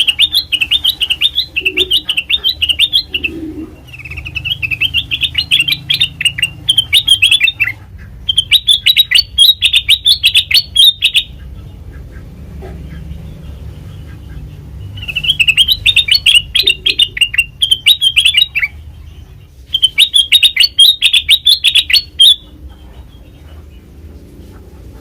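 Kutilang emas, a bulbul, calling in bouts of rapid chattering notes, each bout lasting about three seconds, five bouts in all, with a longer pause around the middle.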